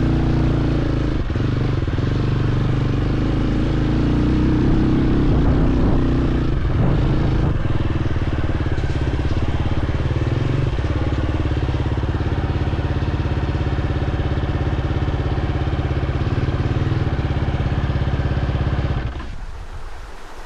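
Dirt bike engine running, its pitch changing a few times in the first half, then holding a steady, even low running beat before the sound drops away abruptly about a second and a half before the end.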